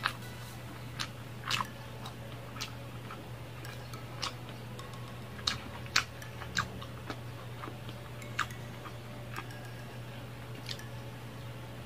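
Close-up mukbang eating sounds from a mouthful of sticky glazed garlic longganisa sausage: a dozen or so sharp wet mouth clicks and smacks at uneven intervals. A steady low hum sits underneath.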